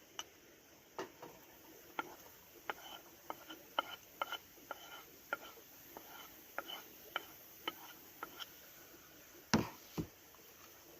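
Irregular light clicks and knocks of hands working with cooking gear and food, with two heavier thumps about nine and a half seconds in.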